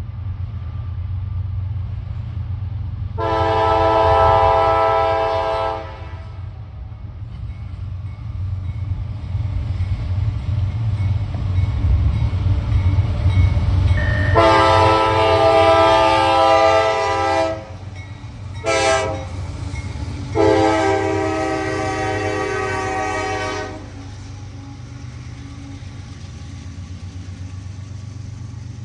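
CSX intermodal freight train's diesel locomotive sounding its multi-chime air horn in a long, long, short, long pattern, the grade-crossing signal, over the steady low rumble of the train.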